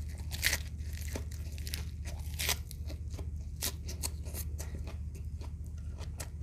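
A mouthful of crisp fried shrimp wrapped in lettuce being bitten and chewed close to the microphone: a run of crunches, the loudest about half a second and two and a half seconds in. A steady low hum runs underneath.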